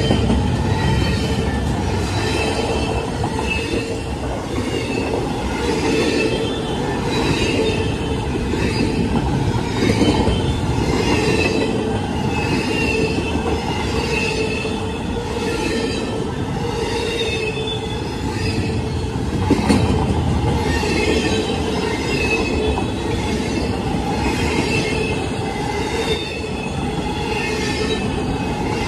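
CSX double-stack intermodal freight train's well cars rolling past at close range: a steady heavy rumble of wheels on rail, with a high metallic squeal from the wheels ringing over it and faint repeated clacks as the trucks cross the rail joints.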